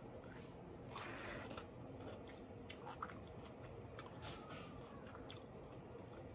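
Faint chewing of a mouthful of soft rice noodles (pad thai), with a few soft clicks.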